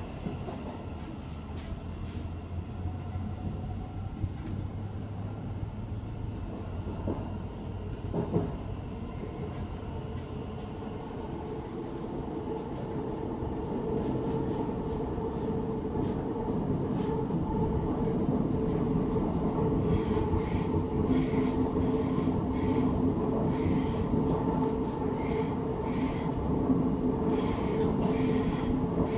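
Running noise heard from inside a Siemens Class 700 Desiro City electric train as it pulls away from an underground station. A low hum comes first; about halfway through, a steady motor whine and rumble build up as the train gathers speed into the tunnel. Near the end there is a run of short, high squeaks and clicks from the running gear.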